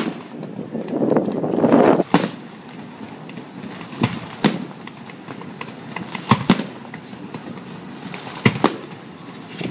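Aerial fireworks bursting: a string of sharp bangs every second or two, some in quick pairs, with faint crackling between them. A rushing noise swells over the first two seconds and ends in a bang.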